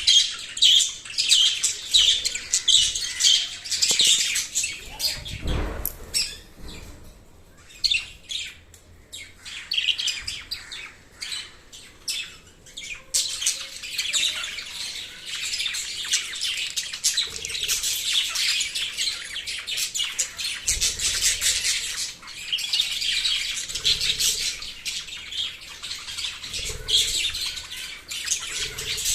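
A flock of small pet parrots chirping and chattering in rapid high calls, thinning out for a few seconds before becoming a steady chatter. A brief low thud about five seconds in.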